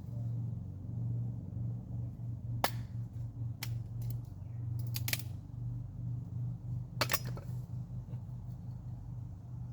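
A handful of sharp clicks or snaps, irregularly spaced, over a steady low hum.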